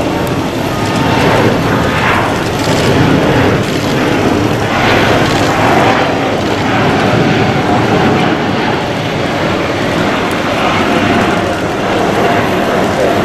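Jet airliner engines running loud and steady, a dense even roar without a clear start or stop.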